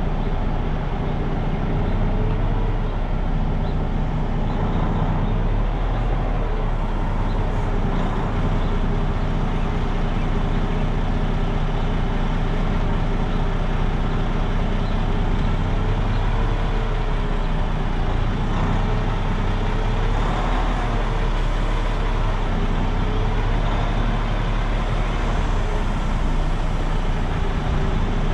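Semi truck's diesel engine running steadily at low revs, its pitch rising and falling slightly, as the rig reverses slowly.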